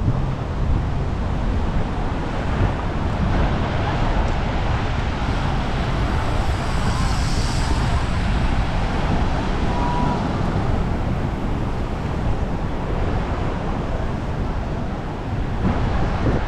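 Wind buffeting the microphone outdoors, a steady low rumble over a continuous rush of background noise.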